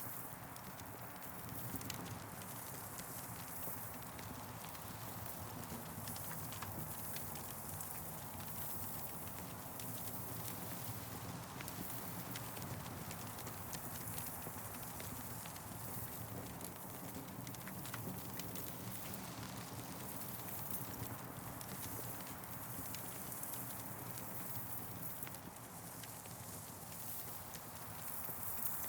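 Campfire crackling: a steady hiss with frequent small pops and snaps scattered throughout.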